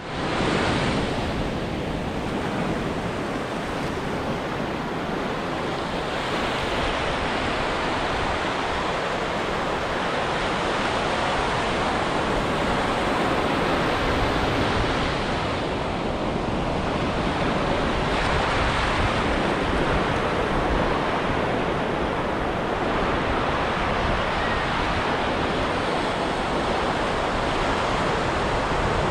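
Ocean surf washing onto a beach, a steady rush of breaking waves.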